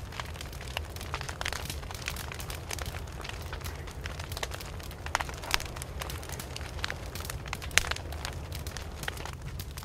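Wood fire crackling, with many small sharp pops over a steady low rumble; one louder pop comes a couple of seconds before the end.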